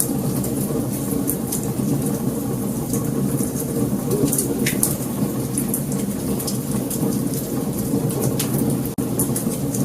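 Wood fire crackling: scattered sharp pops and snaps over a steady low rumble of flames. The sound drops out for an instant near the end.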